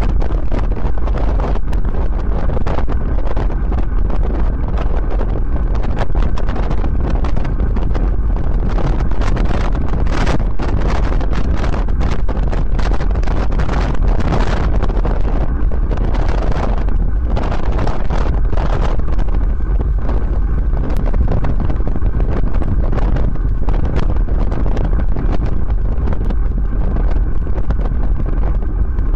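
Wind buffeting the microphone of a camera carried on a moving bicycle: a loud, steady rumble with no let-up.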